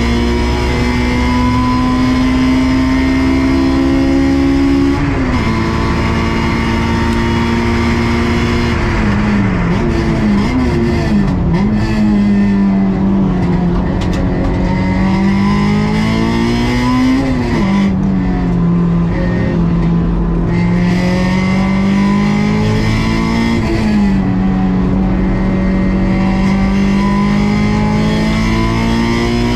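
Honda S2000 (AP2) stock 2.2-litre inline-four engine driven hard on a circuit: the revs climb, drop sharply at an upshift about five seconds in, fall with quick blips as it downshifts around ten seconds, then rise and fall again several times through corners.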